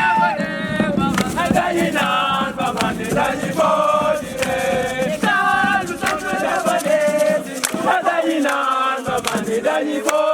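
A group of voices chanting and singing together in chorus, in short sung phrases.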